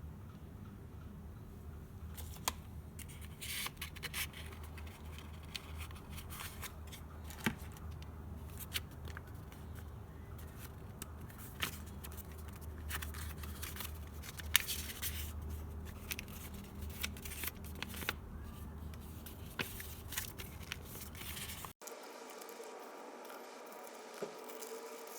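Irregular scraping and scratching with many sharp light clicks, as of hands working with paper, packaging or a pen, over a low steady hum; the sound cuts off abruptly near the end to a quieter background.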